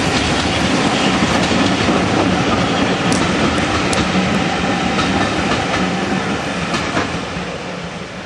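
Passenger train hauled by LNER A4 Pacific 60019 Bittern rolling past, its wheels clicking over the rail joints with a few sharp ticks, then fading as it draws away near the end.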